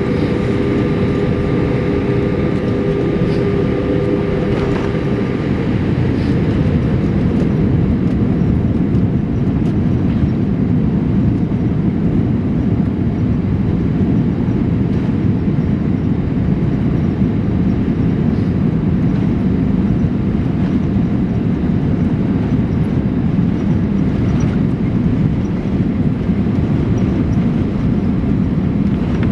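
Steady low rumble of engines and rushing air inside the cabin of a Boeing 787-8 airliner. A few faint steady tones fade out about five seconds in.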